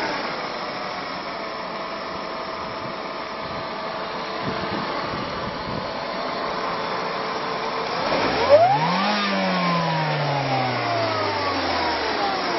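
Supercharged Mercedes W124 cabriolet engine idling, then a single throttle blip about eight seconds in: the revs rise quickly and fall back slowly, the supercharger's whine winding down with them.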